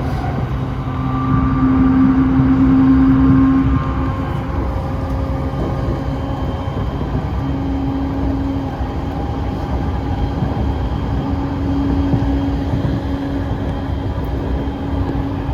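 Train running along the rails: a steady rumble with a humming tone that swells and fades, louder for a couple of seconds near the start.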